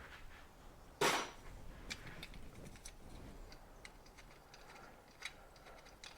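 Light clicks and ticks of hand work on a motorcycle's headlight wiring, with one louder short noise about a second in.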